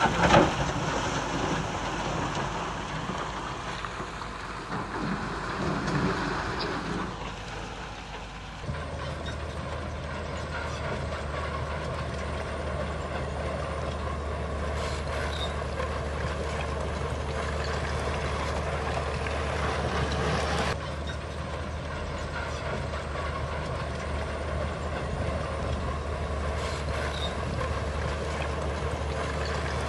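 Diesel engines of heavy earthmoving machinery, a bulldozer and dump trucks, working, with sharp knocks near the start. About nine seconds in the sound switches abruptly to a steady low engine drone.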